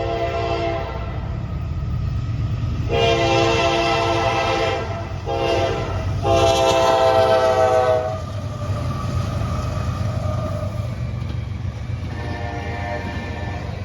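Locomotive horn blowing the grade-crossing pattern: a blast ending about a second in, then a long, a short and a long blast from about 3 to 8 seconds in, over the steady rumble of the passing train. A fainter horn blast sounds near the end.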